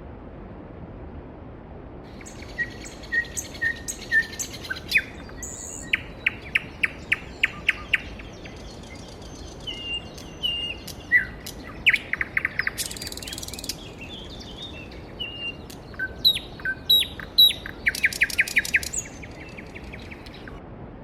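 Songbirds chirping and trilling over the steady rush of a mountain stream. The birds start about two seconds in, with quick runs of notes, and stop near the end.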